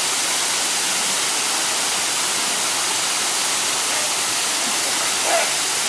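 Waterfall falling into its pool: a steady, even rushing of water.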